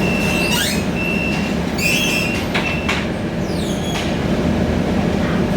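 Scania K320iA CNG city bus heard from inside the cabin while riding, with a steady engine and road rumble. Several short high squeals and rattles come in the first three seconds.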